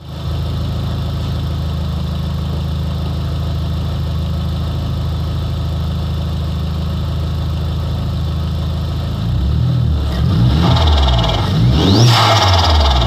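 Volkswagen Golf GTI Mk4 turbocharged engine, with a sports air filter and 2.5-inch exhaust, idling steadily, then revved in several blips from about nine seconds in. A short rising whistle near the end and the turbo flutter of the priority valve as the throttle closes.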